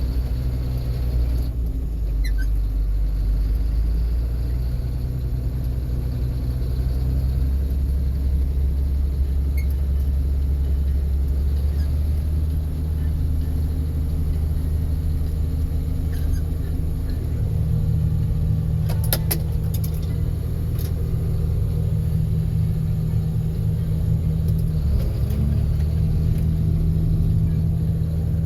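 Tractor engine running steadily as the tractor drives down the road. Its low hum shifts slightly higher about two-thirds of the way through.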